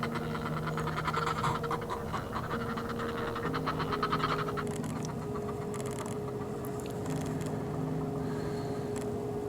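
Northern fulmars cackling, a fast guttural chatter for the first four or so seconds, then fading. Underneath are held low notes that change pitch every second or two, like a soft background music pad.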